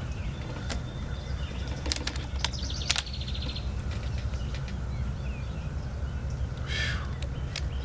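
Birds chirping, with a fast high trill about two and a half seconds in and another short call near the end, over a steady low rumble. Scattered sharp clicks run through it.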